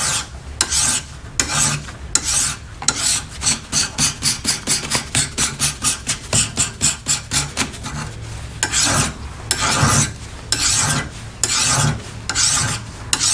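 Flat file rasping across a steel mower-deck spindle shaft in repeated back-and-forth strokes, about two to three a second, taking off spots of surface rust.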